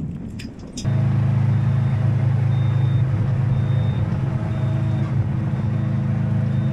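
A truck's engine running close by. It comes in suddenly about a second in and holds steady. Faint short reversing beeps sound at even intervals over it as the truck backs up.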